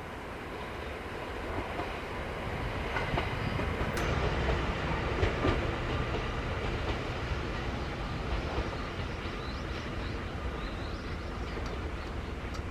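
ET127 series electric multiple unit running through the yard, its rumble growing louder about two seconds in, with its wheels clacking over rail joints a few times.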